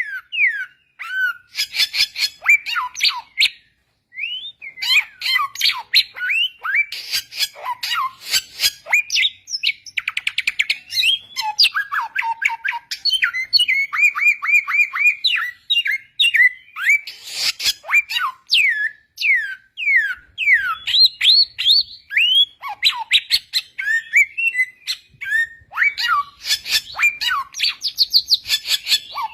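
Samyong, an Indonesian endemic songbird, singing a fast, varied song of quick down-slurred whistles, chips and trills, with a brief pause about four seconds in.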